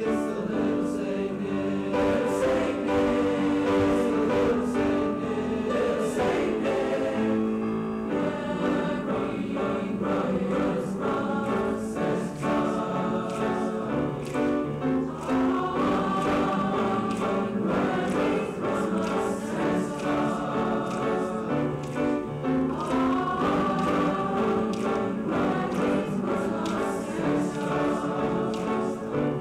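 Junior high school choir singing a song together, many voices holding and moving between notes.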